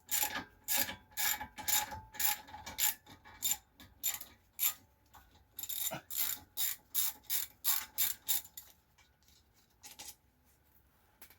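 Socket ratchet wrench clicking as it is worked back and forth on a brake bolt, about two clicks a second, with a brief pause about five seconds in, then stopping after about eight and a half seconds.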